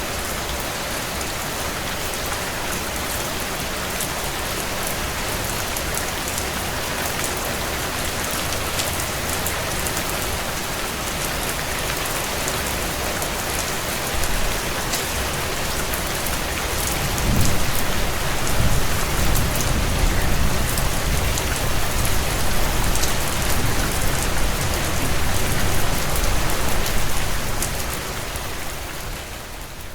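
Heavy rain drumming steadily on a tin roof, dense patter with many sharp individual drop hits. A little past halfway a low rumble comes in under the rain and carries on to near the end.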